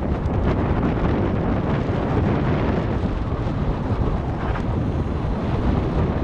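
Wind rushing and buffeting over an action camera's microphone during a fast mountain bike descent, with a few light rattles.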